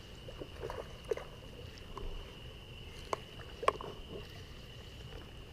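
Faint pond-side sounds: a steady high insect buzz, with a few light clicks and knocks scattered through, the sharpest about three and a half seconds in.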